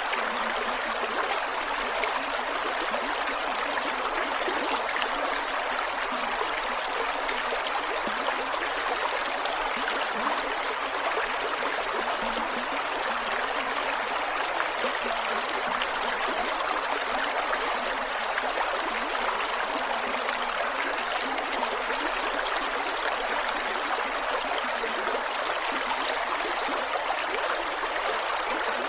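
Creek water flowing steadily over rocks, a continuous even rush with small gurgles.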